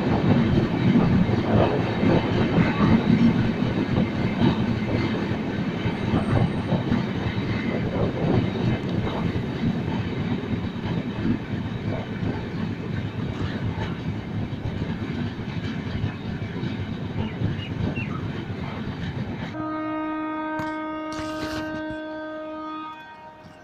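Train running with a steady rumble and wheel clatter that slowly fades, then one long locomotive horn blast of about three and a half seconds near the end.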